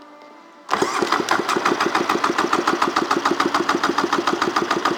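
Polaris SLX 780 three-cylinder two-stroke jet ski engine being cranked over for a compression test on the center cylinder, starting about a second in with an even run of cranking pulses, about nine a second. The center cylinder reads 119 PSI, an even, healthy compression.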